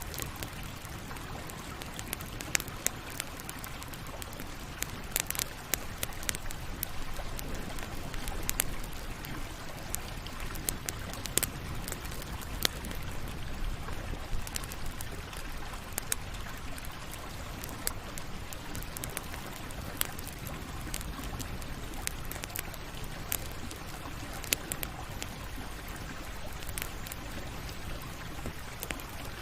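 Campfire burning with a steady low hiss and frequent irregular sharp crackles and pops.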